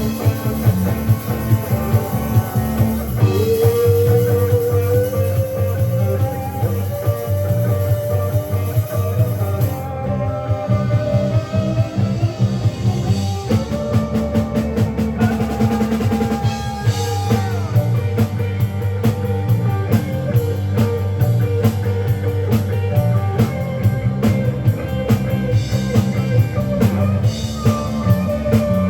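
Live rock band playing an instrumental passage: drum kit keeping a steady beat under bass and electric guitars, with a sustained lead line sliding between notes.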